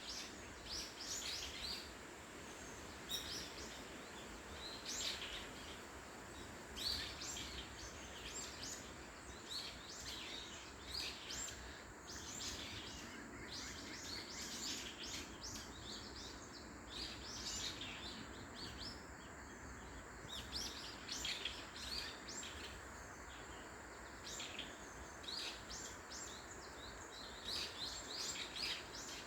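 Several small songbirds chirping in short, quick high notes, scattered throughout, over a steady background hiss.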